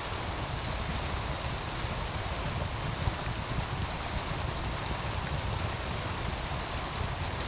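Steady rushing of a meltwater stream, with sharp crackles and pops from a wood fire now and then.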